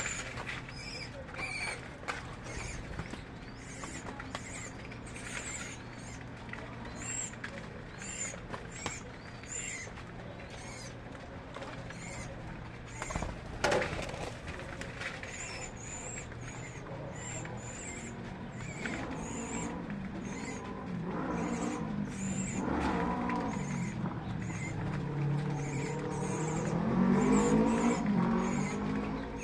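Small birds chirping, short high calls repeating about once or twice a second. In the second half, a lower pitched sound whose pitch glides up and down swells in and is loudest near the end.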